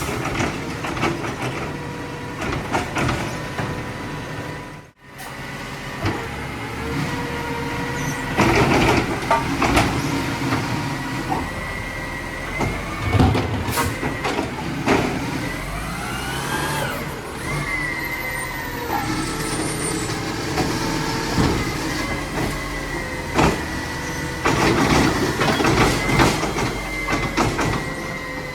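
Mack LR garbage truck with a Labrie Automizer side-loader body at work: the engine runs under a steady hydraulic whine, with knocks and clanks scattered through, and a pitch that rises and then falls about sixteen seconds in. A very brief break comes about five seconds in.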